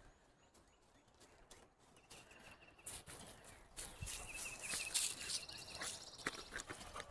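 Footsteps and rustling in undergrowth, getting louder from about three seconds in, with a faint high trill running under it.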